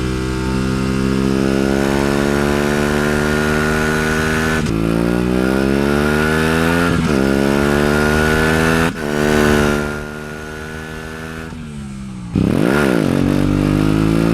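Aprilia RS 457 parallel-twin sportbike engine accelerating through the gears, the pitch climbing in each gear and dropping at three upshifts. After a quieter, easing-off stretch, it revs and climbs again near the end.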